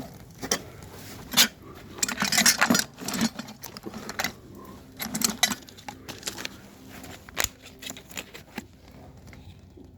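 Metal hand tools and plumbing fittings being handled and worked: an irregular run of clinks, knocks and short scrapes, busiest about two seconds in and again about five seconds in, with one sharp click past the middle before it settles.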